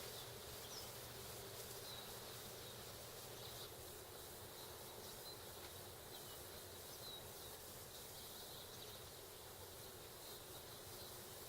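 Faint, steady outdoor hiss with scattered short, high chirps from small birds, a dozen or so spread irregularly through the stretch.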